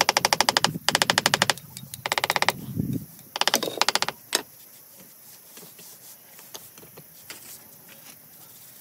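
Rapid, evenly spaced mechanical clatter in four short bursts, like a power tool hammering, followed by a single knock; then only low background noise.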